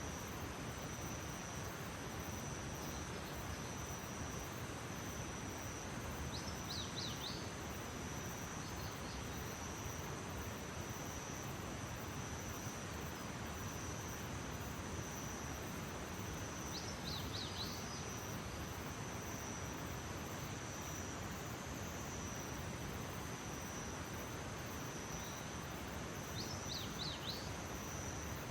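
Insects, likely crickets, trilling steadily on one high note over a soft outdoor hiss. A short burst of quick chirps, likely from a bird, comes three times, about ten seconds apart.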